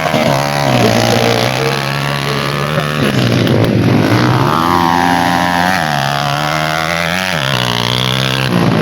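Motorcycle engine running and being revved, its pitch stepping up and down several times.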